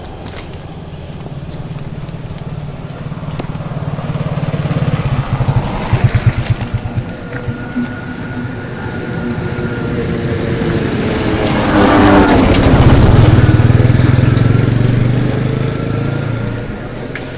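A motor vehicle's engine running as it approaches and passes close by, growing louder to a peak a little past the middle and then fading away.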